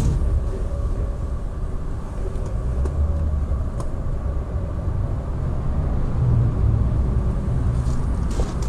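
Ford Transit diesel engine idling with a steady low rumble.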